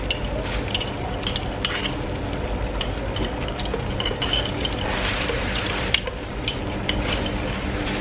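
A utensil clinking and scraping in a frying pan while the stroganoff sauce sizzles, with a louder hiss of sizzling about five seconds in.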